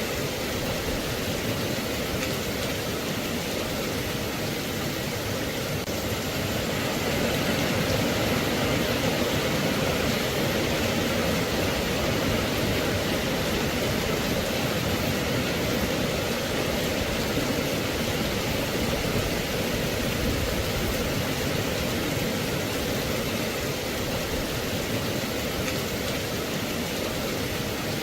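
Steady rain falling, an even hiss with no separate drops or rhythm standing out. It grows slightly louder about seven seconds in.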